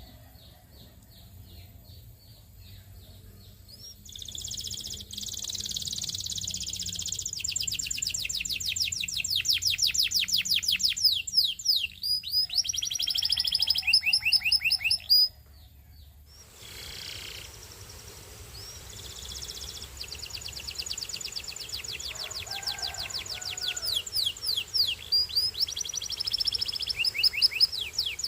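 A canary singing. After a few quiet seconds it sings high phrases of fast repeated notes and rolling trills, pauses briefly about halfway, then starts again.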